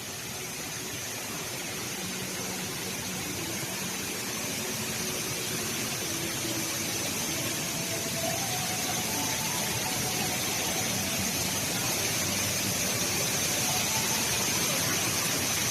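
Steady rushing roar of the HSBC Rain Vortex, a tall indoor waterfall, pouring down, growing slowly louder throughout, with faint crowd voices beneath.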